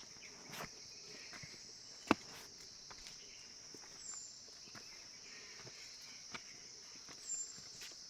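Steady high-pitched drone of insects, with scattered light clicks and one sharp click about two seconds in.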